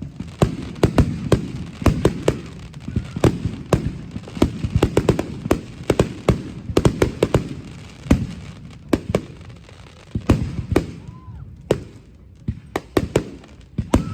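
A fireworks display with shells bursting in rapid succession: a dense string of sharp bangs, several a second, over a low rumble. The bangs thin out briefly about ten seconds in, then pick up again.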